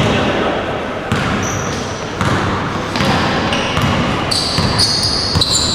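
Rubber-soled shoes squeaking on a sports hall floor and a ball bouncing during an indoor ball game, with many short high squeaks and thuds echoing in the hall.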